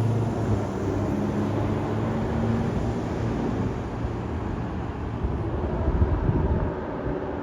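Fire truck's diesel engine running steadily with a low hum, its pitched tone easing off about three seconds in.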